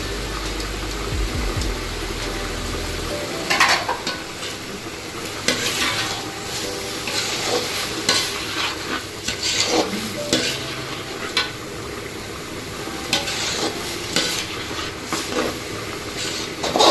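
A spatula stirring and scraping rice and lentils frying in oil in a cooking pot, with a sizzle and irregular scrapes and clicks. A low hum stops about three seconds in, and the scraping grows busier after that.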